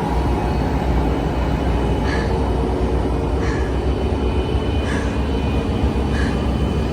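Amtrak Cascades train with Talgo cars rumbling steadily at close range, with a light high click about every second and a half.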